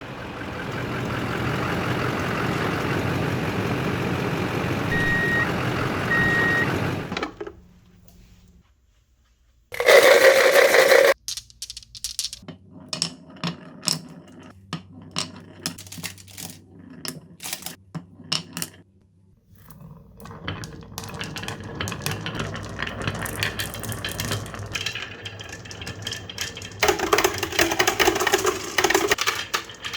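Marbles rolling and clacking along a HABA wooden marble run: many separate sharp clicks, then a denser clicking rattle that gets louder near the end. Before this comes a steady noisy stretch with two short beeps, a pause, and one loud burst.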